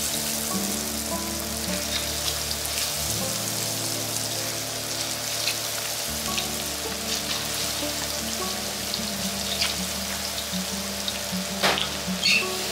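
Chicken pieces deep-frying in oil at 180 °C: a steady sizzle with scattered crackles and pops, and a sharper cluster of pops near the end.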